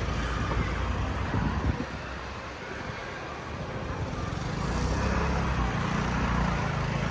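Street traffic: road vehicles going by, with a vehicle engine's low running sound coming up about halfway through.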